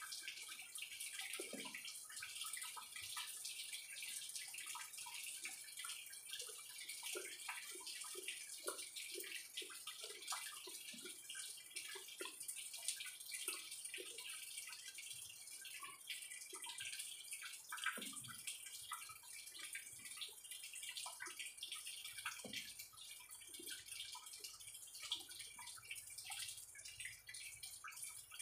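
A person chewing green mango slices, faint wet crunching and mouth smacks: many short, irregular clicks over a steady hiss.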